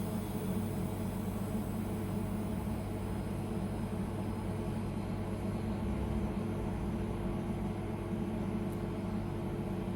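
Car air-conditioning recharge station running steadily as it injects refrigerant into the system: a constant mechanical hum.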